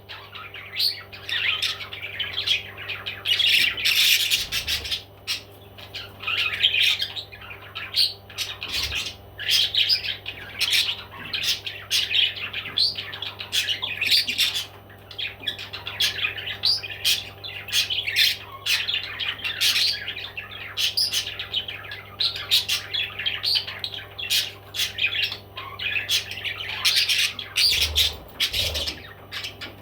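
Baby parrots squawking continuously in short, rapid, rasping calls, several a second, with a faint steady hum underneath.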